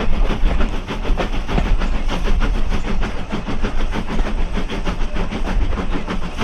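Steam-hauled heritage train carriage running along the line: a steady loud rumble with fast, continuous rattling clatter from the wheels and coach.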